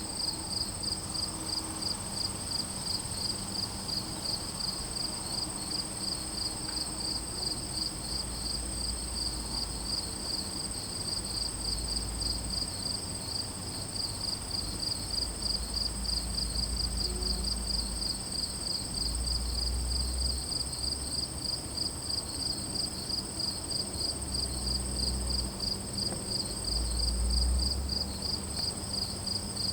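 Crickets chirping in an even, rapid rhythm, with a steady high continuous trill above them. Low rumbles come and go underneath.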